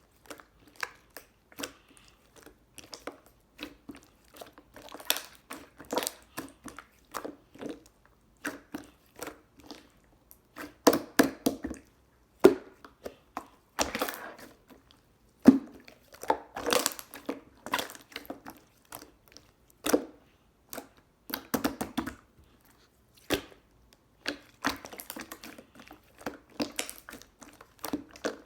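Slime being squished and pressed by hand, giving irregular sticky clicks, pops and squelches, with a few louder squelches around the middle.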